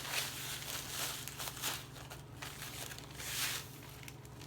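Plastic zip-top bag crinkling and graham cracker crumbs rustling as a measuring cup scoops through them, in short irregular scratchy rustles.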